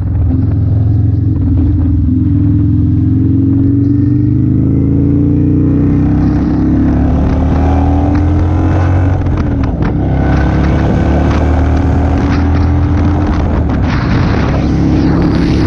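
Motorcycle engine running under way, its pitch climbing slowly for a few seconds as it accelerates.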